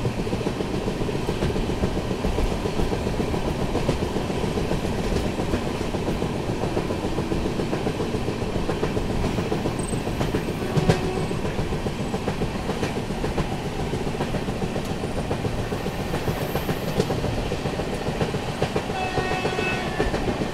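Passenger train running at speed, heard from on board: steady rumble with wheels clattering rhythmically over the rails, one sharp clank about halfway, and a brief high tone near the end.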